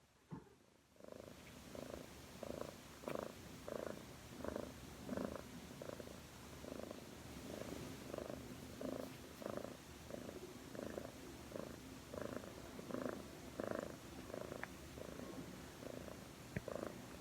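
A cat purring close up, in a steady rhythm of about one and a half swells a second as it breathes in and out, starting about a second in.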